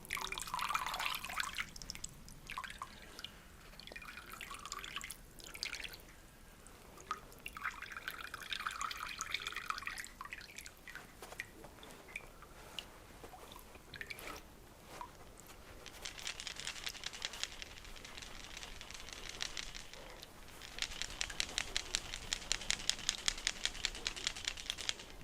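Water dripping and trickling as wet hot-water compresses are handled over a basin, with long runs of quick, regular drips in the second half.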